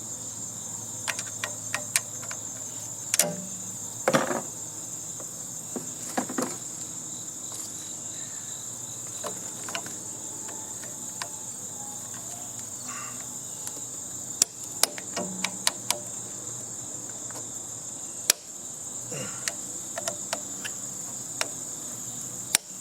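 A steady high-pitched insect trill, with scattered clicks and knocks of hand tools working a nut loose on a heating and air-conditioning unit.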